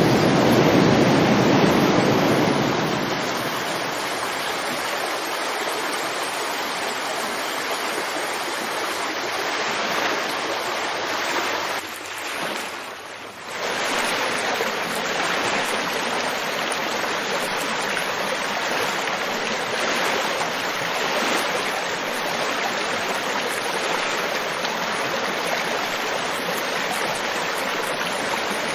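River water flowing, a steady rush. It is louder and fuller for the first few seconds, and briefly drops away about twelve seconds in before carrying on.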